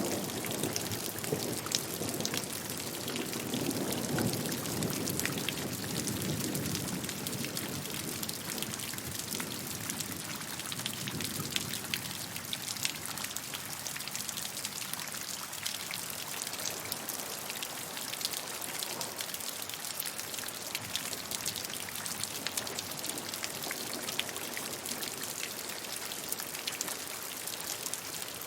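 Steady rainfall with many fine drop ticks, falling on a surface. A deeper rushing layer in the first ten seconds or so eases off, leaving the lighter patter.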